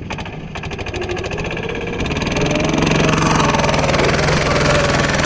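Lombardini engine of a two-wheel-tractor pat-pat vehicle working hard under load, its firing beat plainly audible at first, then revving up and growing louder from about two seconds in.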